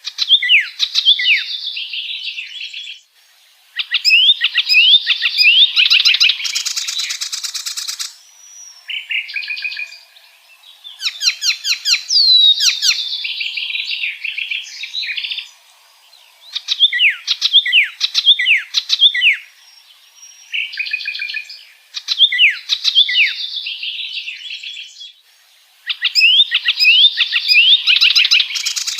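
Icterine warbler singing: about seven bouts of a few seconds each, separated by short pauses. Each bout is a fast, varied run of sweeping whistled notes, and some end in a grating rattle.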